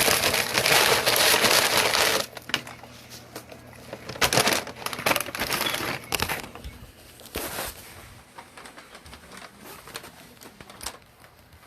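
Close-up eating noises, crunching and crinkling of food and its wrapping, loudest and most continuous in the first two seconds, then in short scattered bursts.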